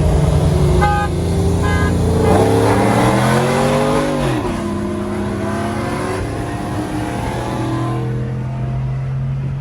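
Car engine running, then revving up hard for about two seconds and easing off, as in accelerating through a gear. Two short high beeps sound near the start.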